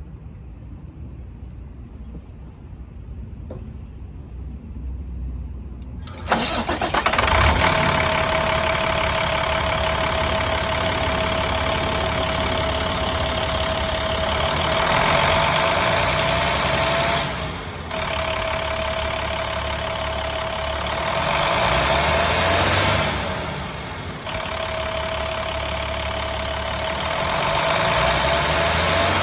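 2010 International 4400 truck's diesel engine starting about six seconds in, then idling steadily with a constant whine over the engine note. The engine speed is raised a few times in the second half.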